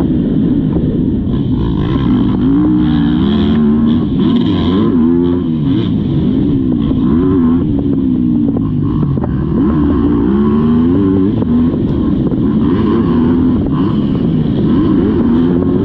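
Motocross bike engine heard close up, as from an onboard camera, revving hard and easing off over and over as the rider accelerates, shifts and brakes around the track.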